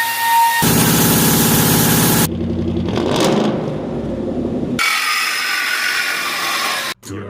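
Auto repair shop noises cut one after another: a hiss with a steady whistle, a loud mechanical roar, an engine-like running sound, then a high hiss, each ending abruptly.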